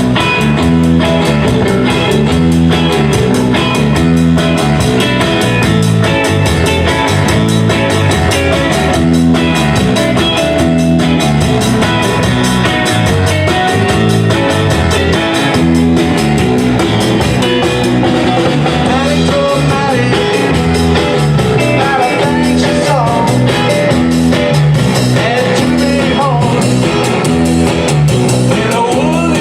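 Live rock band playing a song: guitars and drum kit over a repeating bass line with a steady beat.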